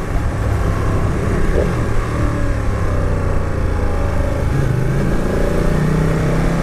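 Motorcycle engine running while riding, heard from on the bike over wind rush. The engine note drops about two seconds in and climbs again near the end.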